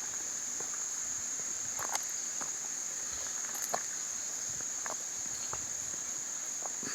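Steady high-pitched insect chorus trilling without a break, with a few faint scattered clicks and rustles over it.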